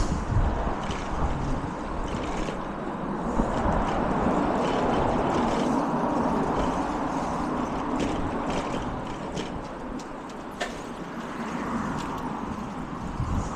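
Road traffic noise: a rushing sound that swells over the first few seconds, holds, and fades away in the second half, like a vehicle going past, with a few light clicks.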